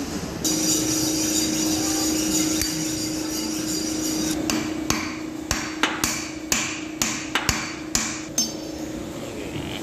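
Hammer striking metal parts on a machine's drive shaft, about ten blows at roughly two a second, each ringing briefly. For the first four seconds a steady hum with a high whine runs underneath.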